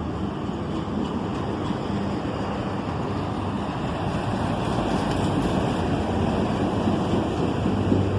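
Steady rumble and wheel noise of a long CSX double-stack intermodal freight train's cars rolling past, growing slightly louder toward the end.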